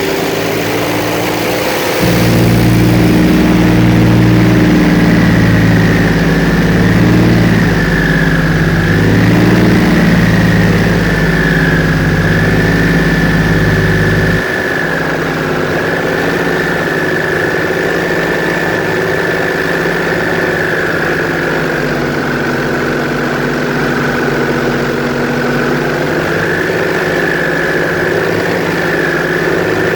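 Airboat engine and propeller running steadily with a high whine on top; it gets louder about two seconds in and drops back suddenly about halfway through.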